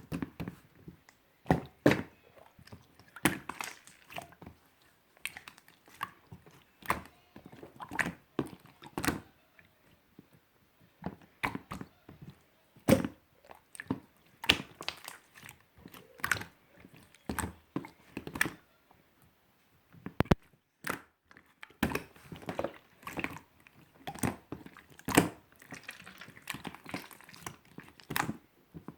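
Slime being squeezed, stretched and pressed by hand, giving an irregular run of sticky clicks and pops, a few a second, with fainter crackling between.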